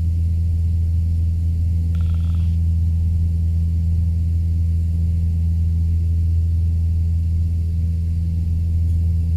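Steady low drone of a Cessna 172's piston engine and propeller in climb, heard from inside the cockpit.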